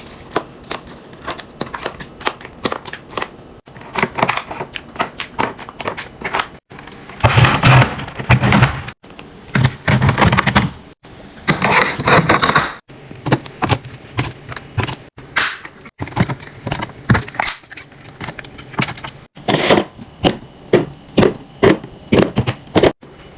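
Plastic containers, bottles and packaging being handled and set into a refrigerator: a run of clicks, taps and knocks, with a few denser stretches of rustling and clatter, broken into short edited clips.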